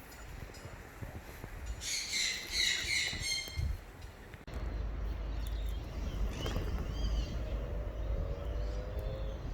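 Bird calls: a quick run of repeated, pitched call notes about two seconds in, then fainter calls later, over a low rumble of wind on the microphone.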